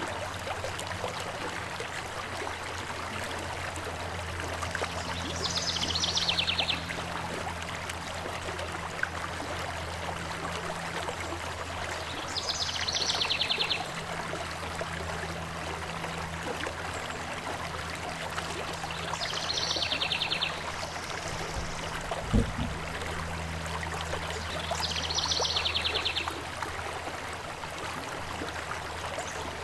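Stream water running steadily while a bird repeats a high, rapid trill-like call four times, about once every seven seconds, each call lasting about a second. A low steady drone sits underneath, and a single thump comes about two-thirds of the way through.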